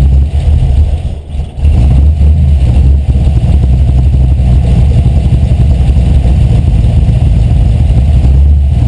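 Carbureted 5.0-litre V8 running steadily with a deep, loud exhaust note; the level dips briefly about a second in, then holds steady.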